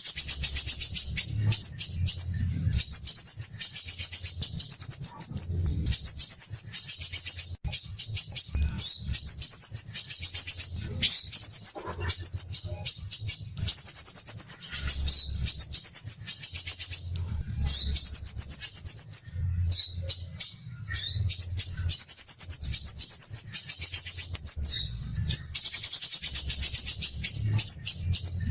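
Crimson sunbird singing: fast, closely packed, harsh trills of high notes in phrases of one to two seconds with short breaks between them, over a low hum.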